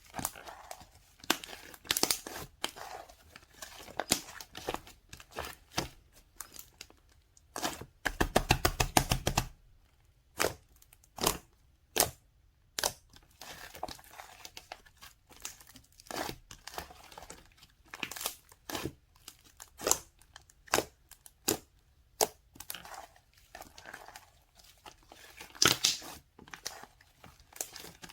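Handling noises: irregular crinkling and rustling with sharp clicks. Around eight seconds in comes a fast, loud rattle of closely spaced clicks lasting about a second and a half.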